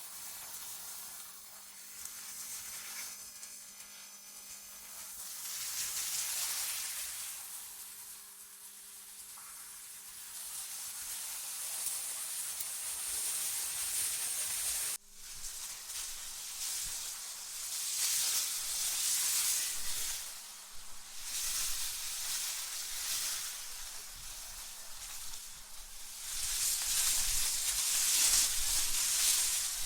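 Hissing, high-pitched wind noise that swells and fades in gusts every few seconds, with an abrupt momentary drop-out about halfway through.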